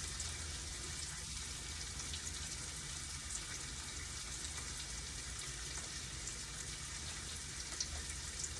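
Tofu frying in hot oil in a pan: a steady sizzle with scattered small crackling pops as it browns.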